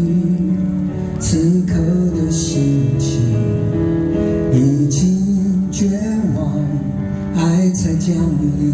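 Live band music playing loudly at a concert, with sustained, gliding melodic lines over a full band backing and repeated cymbal-like strokes.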